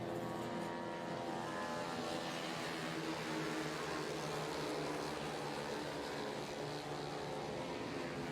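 A pack of 160cc racing scooters with their engines running together: a steady, many-toned engine drone with slight shifts in pitch.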